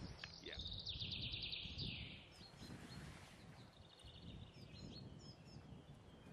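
Faint songbird song outdoors: a rapid trill of high notes lasting about two seconds, then a few scattered chirps, over low background rumble.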